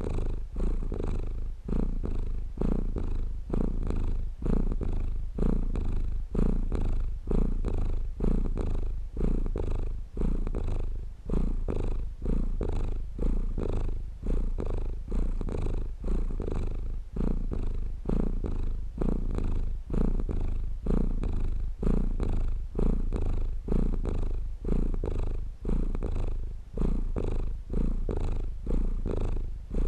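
Domestic cat purring close up: a low, continuous purr that swells and dips in a regular rhythm with its breathing, about once every second or two.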